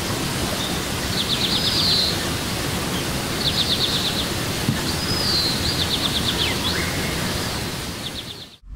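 A bird calling over and over, short rapid trills alternating with slurred whistles, every couple of seconds over a steady hiss-like outdoor background. It all fades out just before the end.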